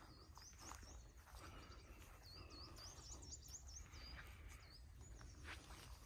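A small songbird singing quietly: runs of short, high notes, each dipping and rising in pitch, repeated several times, with a few faint footsteps on grass.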